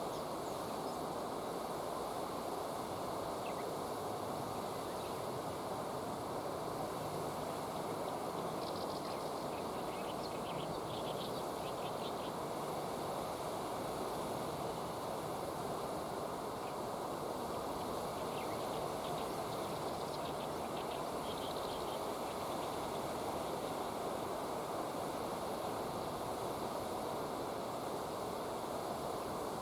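Steady rush of flowing river water, with a few faint high chirps about a third of the way in and again past the middle.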